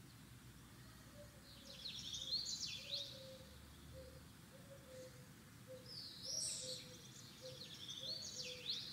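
Faint songbird chirping: a cluster of quick, high chirps about two seconds in, and more again from about six seconds in until the end.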